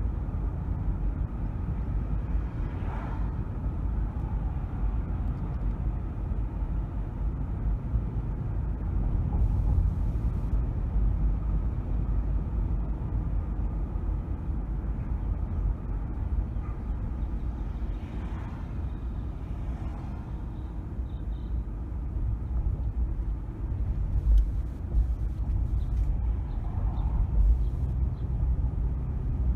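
Steady low road and engine rumble of a car driving through city streets, with a few faint brief sounds from the surrounding traffic over it.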